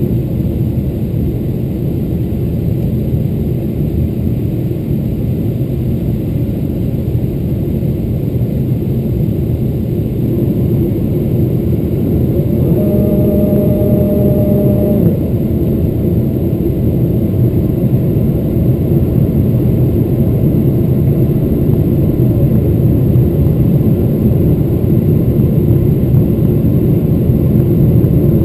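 Cabin noise inside a Boeing 777-300ER on approach: a steady low roar of its GE90 engines and the airflow, growing a little louder in the second half. About halfway through, a short humming tone sounds for a couple of seconds over the roar.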